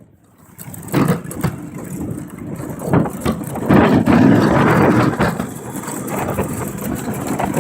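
Riding lawn mower engines running, louder for a stretch about four seconds in.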